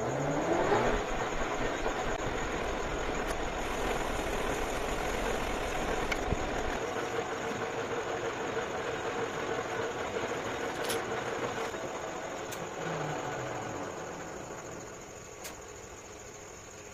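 A metal lathe's motor spins up with a quickly rising whine, runs steadily with a mechanical hum, then winds down with a falling pitch about three-quarters of the way through.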